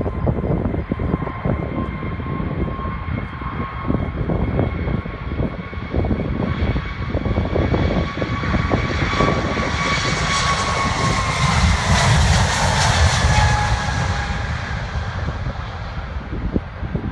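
Jet airliner passing close by: a steady engine whine that swells to its loudest about twelve seconds in and then falls in pitch as the aircraft goes past. Wind buffets the microphone throughout.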